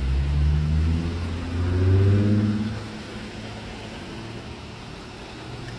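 A car engine accelerating, its pitch climbing and getting louder for about three seconds, then falling back to a quieter steady low hum.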